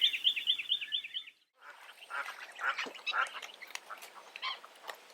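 Birds calling: a rapid, evenly repeated high chirping that cuts off about a second in, then, after a short gap, a mix of irregular calls.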